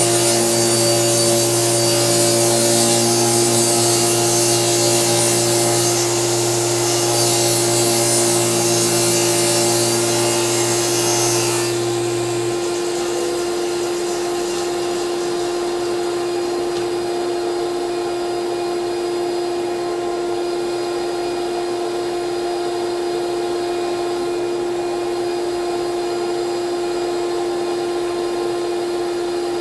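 Delta table saw cutting plywood, its motor and blade running loud until the saw shuts off about twelve seconds in. A vacuum motor keeps running with a steady hum throughout.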